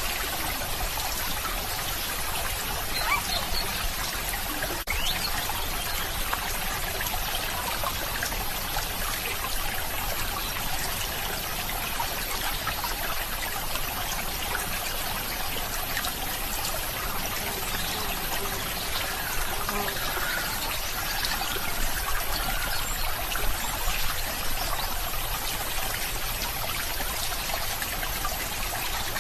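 Running water of a small stream, trickling steadily, with a few slightly louder splashes here and there.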